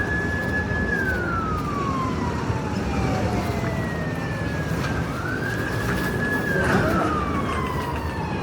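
Emergency vehicle siren sounding a wail: the pitch rises quickly, holds high for about a second, then falls slowly over several seconds, and a second rise begins about five seconds in. Steady street traffic noise runs underneath.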